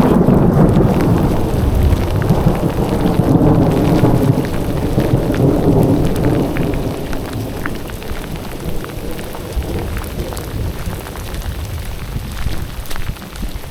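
Heavy rain pouring down in a thunderstorm, with a deep rumble of thunder that fades away over the first half. Sharp ticks of individual drops stand out as the rumble dies down.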